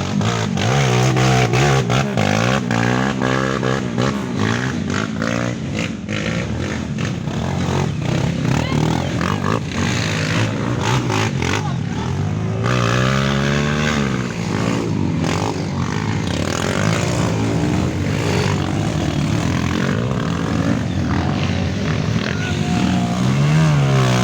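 Several off-road trail motorcycles revving hard through a muddy bog, their engines overlapping and rising and falling in pitch again and again.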